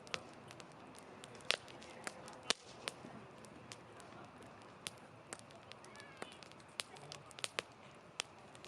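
Wood fire crackling in a campfire, with irregular sharp pops, a few loud ones standing out, over a soft steady hiss of burning.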